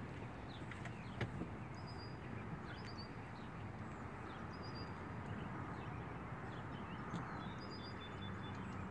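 Steady outdoor background noise with a small bird chirping a few times in short high notes, and a brief knock about a second in.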